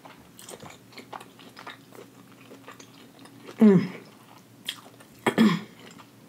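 Close-miked chewing of hibachi food, with small wet mouth clicks throughout. Two short hummed "mm" sounds that fall in pitch come about three and a half and five seconds in.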